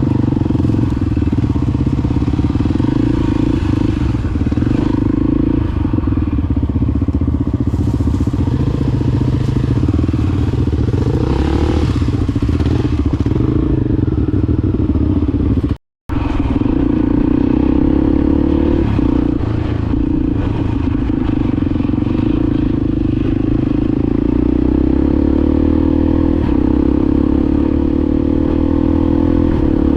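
Honda XR250 single-cylinder four-stroke dirt bike engine running steadily under way. The sound drops out completely for a moment about halfway through. The engine note climbs over the last few seconds as the bike accelerates.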